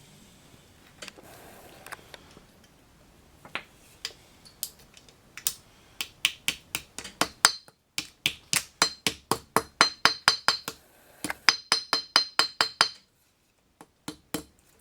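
Hammer tapping a dust seal into a Ford F100 front brake drum hub: a few scattered knocks, then from about six seconds in a quick run of sharp metallic taps, about four or five a second, with a brief pause near the middle. The seal is driven in until it stops.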